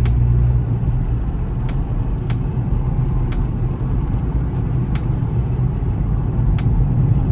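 Dodge Charger R/T's 5.7 HEMI V8 exhaust, mid muffler and resonators deleted, droning steadily and deep at a light cruise, heard through open car windows, with a string of sharp ticks over it.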